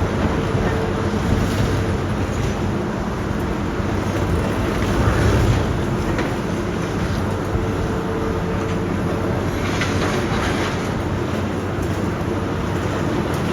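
Heavy demolition machinery running: a steady diesel engine drone under a dense rumble, with scattered clattering of broken material.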